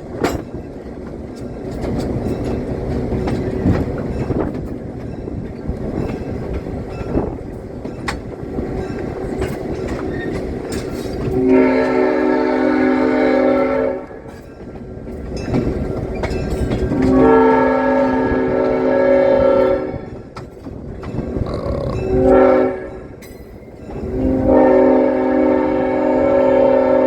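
Train rolling along with a steady rumble and wheel clicks, then the locomotive horn sounding the grade-crossing signal: two long blasts, a short one and a long one.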